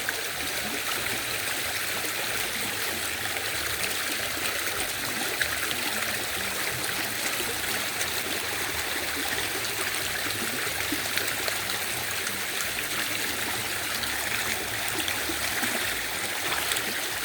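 River water flowing, a steady rush of running water.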